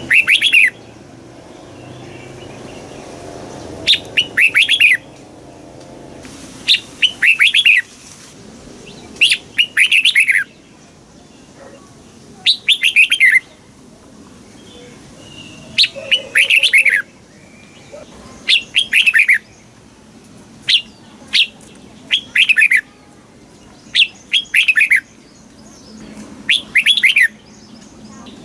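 Red-whiskered bulbul singing: short phrases of quick notes that slide downward, repeated every two to three seconds.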